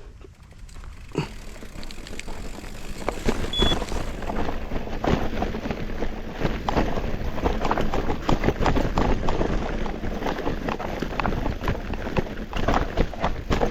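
Mountain bike descending a loose-rock trail: tyres crunching over stones and the bike rattling and knocking in a dense, irregular clatter over a low rumble, which grows louder and busier after the first few seconds.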